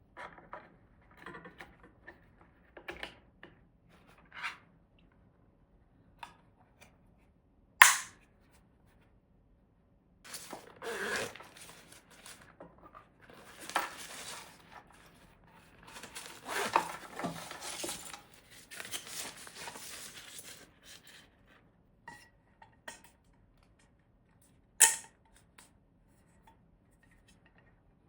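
Kitchen handling sounds: scattered small taps and clicks of utensils and dishes, two sharp knocks, and a long stretch of rustling, scraping noise in the middle.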